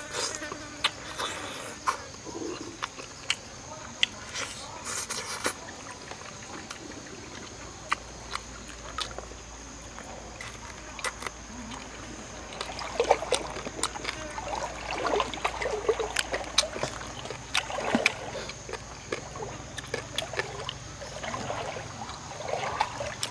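Close-up eating sounds: chewing and lip-smacking on fried chicken, with many short wet clicks that thicken into a run of chewing from about halfway through. A steady high insect buzz goes on underneath.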